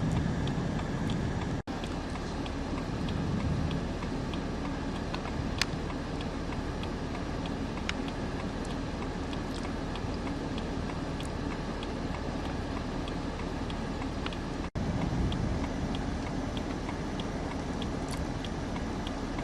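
Steady rumble of a vehicle heard from inside, with a faint regular ticking about twice a second. The sound cuts out completely for an instant twice.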